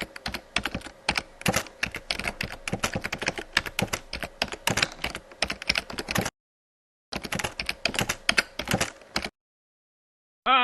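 Rapid keyboard typing, a dense run of sharp key clicks that stops abruptly after about six seconds, resumes for about two seconds, then cuts off.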